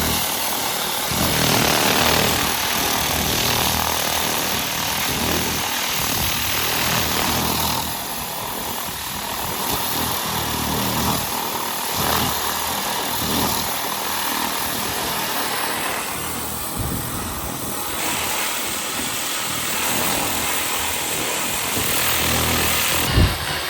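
A power tool running continuously under load, a loud, even grinding hiss with a low hum beneath, its tone shifting several times as the load changes. A short thump near the end.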